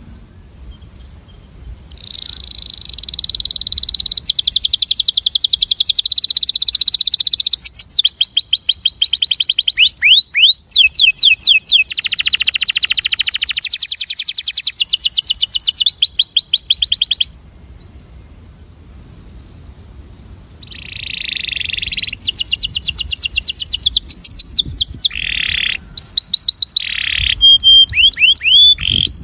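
Male domestic canary singing its breeding song in two long bouts of fast, rolling trills of rapidly repeated high notes, with a short pause between them.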